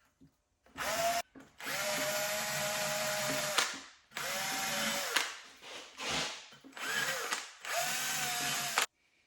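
Handheld impact gun run in about six bursts, the longest about two seconds; its motor pitch sags and recovers within bursts. The gun is not very powerful.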